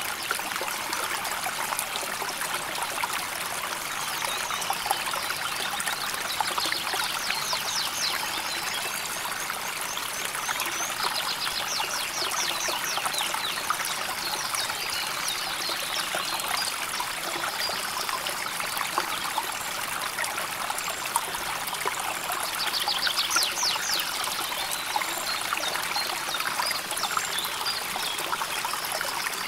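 A calmly flowing river, babbling and trickling steadily. Short, rapid, high-pitched trills cut through it several times.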